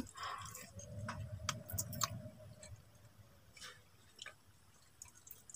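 Faint chewing with small mouth clicks and smacks from someone eating fried dried milkfish and rice, mostly in the first two seconds or so.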